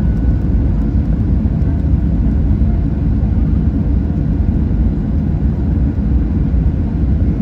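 Steady low rumble of jet engines and rushing air inside the cabin of an Airbus A321 airliner, with a faint steady whine above it.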